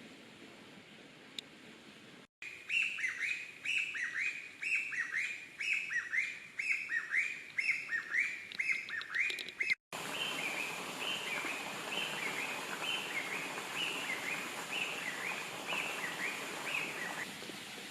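A bird calling in a steady series of short, falling chirps, about two a second. The calls come in two runs split by a cut, the second fainter over a steady hiss.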